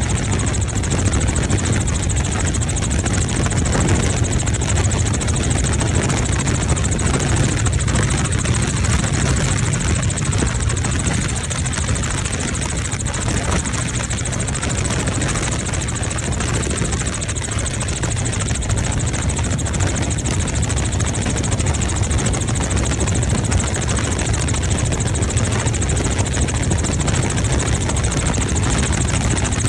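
Helicopter's engine and rotor running steadily in flight, heard from on board, with a strong low drone under an even rushing noise.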